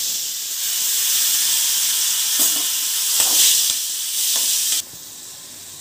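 Chopped tomatoes sizzling as they hit hot oil in an aluminium kadhai, with a few knocks and scrapes of a steel spoon stirring them. The sizzle cuts off abruptly about five seconds in.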